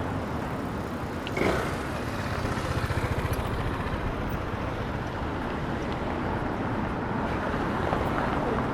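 City street ambience: a steady hum of road traffic, with a brief sharp sound about a second and a half in.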